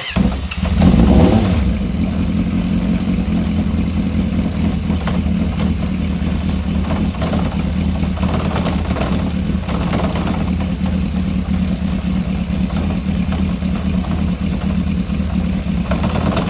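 A 2001 Yamaha Fazer motorcycle engine running steadily, with a brief rise in revs about a second in. It cuts in and cuts off abruptly.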